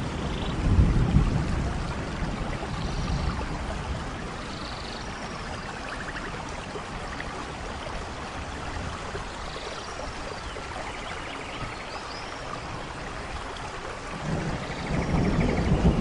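Steady rain falling, with low rolls of thunder about a second in and building again near the end. Faint high chirps sound now and then over the rain.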